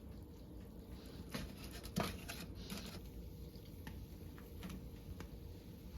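Faint, scattered pops and ticks over a low steady hum: turon (banana spring rolls) frying in oil and caramelizing sugar in a pan on a wood stove.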